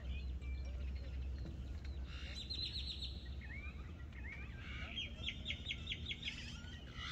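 Birds singing: a quick run of short, high notes about two and a half seconds in and a longer run of about eight from about five seconds, with scattered chirps between, over a steady low rumble.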